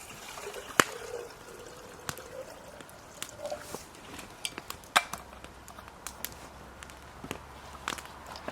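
Wood campfire crackling: irregular sharp pops and snaps, a few of them loud, over a quiet hiss.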